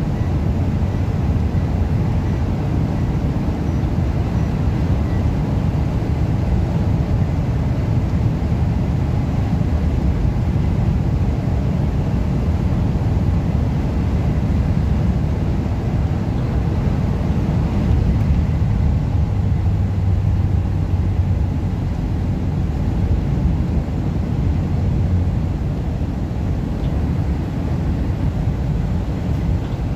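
Steady low rumble of a car driving at road speed, heard from inside the cabin, with strong wind blowing against the car.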